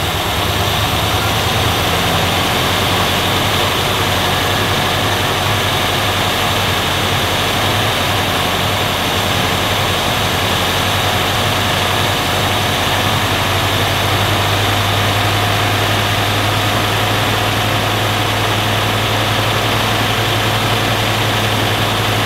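Rover 3500 V8 engine idling steadily on its twin SU carburettors while the mixture is being set, the idle speed increasing as the adjustment goes on.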